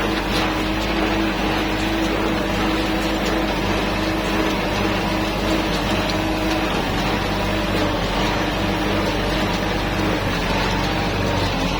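Kubota tractor engine running steadily under work, with its pitch shifting slightly about six seconds in. The operator judges the engine to be running without problems.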